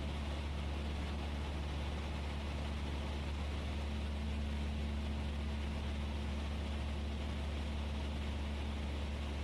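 Steady drone of a Cessna 172S's four-cylinder Lycoming engine and propeller in flight, heard as an even low hum with hiss above it and no change in pitch or level.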